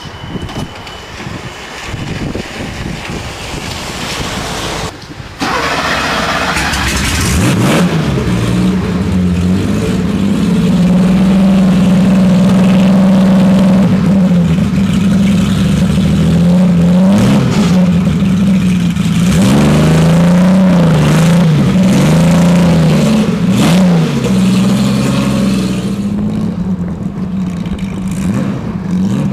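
Porsche 906 race car engine starting with a sudden loud catch about five seconds in, then idling. In the second half it is blipped several times, the revs rising and falling quickly.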